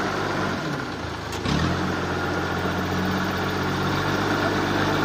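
A large engine running steadily at idle. Its note drops for about a second, then picks up again with a short click about a second and a half in.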